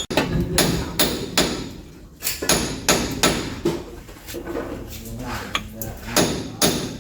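A hammer striking metal in a quick, uneven series of a dozen or so blows, each with a short metallic ring, as work goes on at the car's differential.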